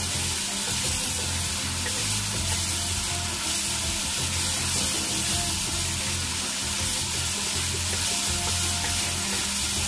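Chopped tomatoes and green chillies sizzling steadily as they fry in hot oil in a karahi, stirred with a wooden spatula. Music plays underneath.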